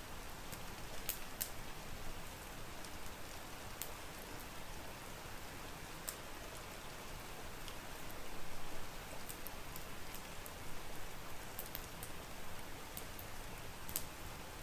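Steady rain hiss mixed with a wood fire crackling: scattered sharp pops and snaps over the even rush of the rain, a little louder for a moment just past the middle.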